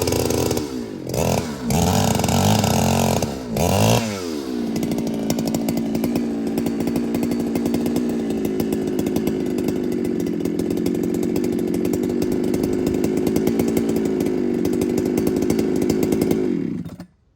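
Ported Husqvarna 395 chainsaw revved in short bursts for the first few seconds, then held at a steady high pitch for about twelve seconds before cutting off suddenly near the end.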